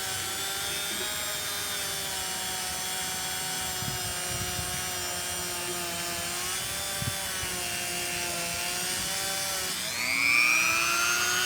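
Small handheld power tool's motor running steadily while it cleans rust off a small engine's flywheel; about ten seconds in it speeds up, rising in pitch and getting louder.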